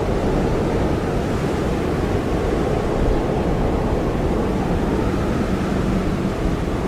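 Blizzard wind blowing steadily, a dense low rumble with a faint hiss above it.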